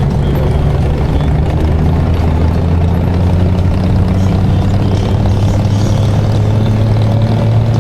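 Motorcycle engine running at a steady cruising speed while riding, with a steady low drone and wind and road noise.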